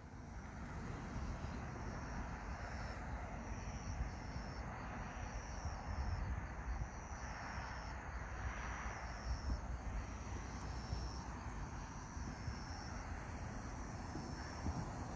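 Wind gusting over the microphone with a low, uneven rumble, and insects, likely crickets, chirping faintly in a slow, even pulse, about once a second.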